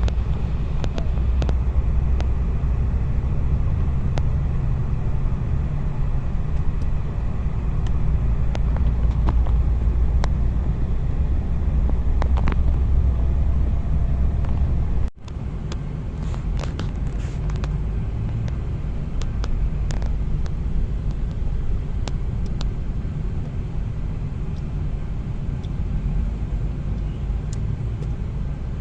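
A moving car: a steady low rumble of engine and road noise with light scattered clicks and rattles. The sound cuts out for an instant about halfway through, then resumes slightly quieter.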